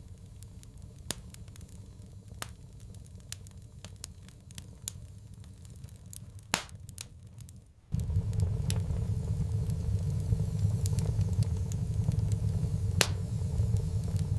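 Wood fire crackling with scattered sharp pops, one louder pop a little after six seconds. A low rumble under it is absent for the first half and comes back suddenly about eight seconds in.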